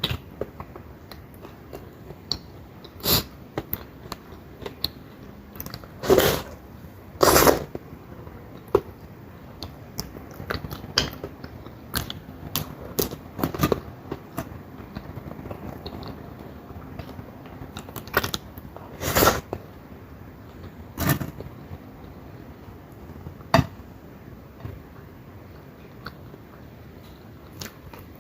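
Close-up eating sounds: chewing and biting into crisp fried dried fish and dried squid, with scattered crunches and clicks.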